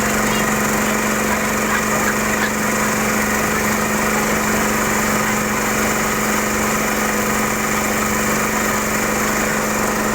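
Small boat engine running steadily at constant speed, a continuous droning hum with no change in pitch.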